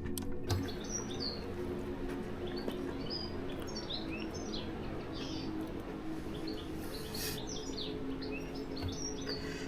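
Small songbirds chirping: many short, high calls scattered throughout, over a low steady hum.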